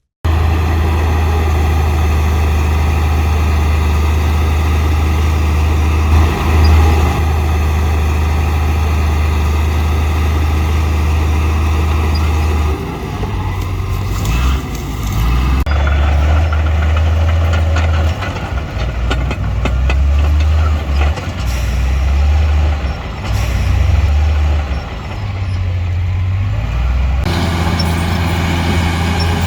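Heavy diesel earthmoving machinery running under load with a deep, steady engine hum. The sound shifts abruptly a few times, about thirteen, sixteen and twenty-seven seconds in.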